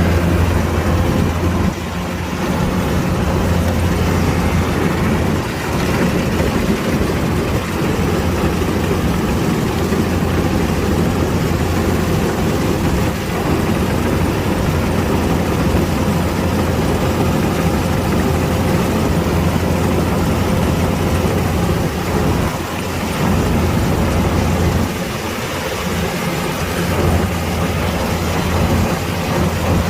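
Kubota DC-105X combine harvester's diesel engine running steadily, with brief dips in level now and then.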